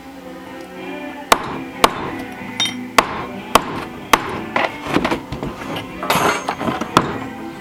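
Hammer blows flattening small metal plates against a big hammer used as an anvil: about eight sharp, irregular strikes, one ringing metallically, over background music.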